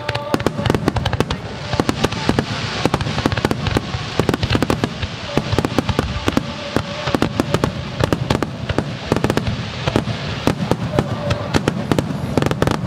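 Fireworks display: a rapid barrage of aerial shells bursting, many sharp bangs and crackles in quick succession with no real gaps, over a steady low rumble.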